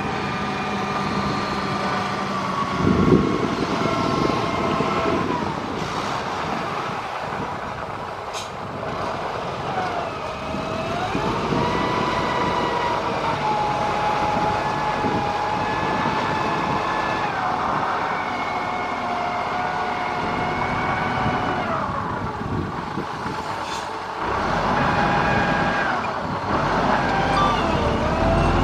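Heavy diesel engine of a motor grader working, with a whining tone that rises and falls as the engine speed changes.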